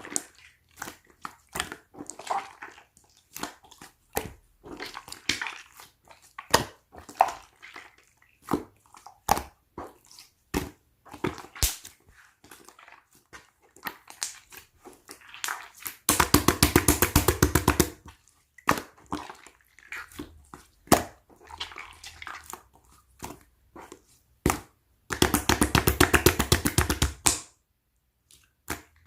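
Green slime being pressed and poked by hand, making sticky clicks and small air-bubble pops. Twice, for about two seconds each, it is worked rapidly, giving a fast continuous run of clicks.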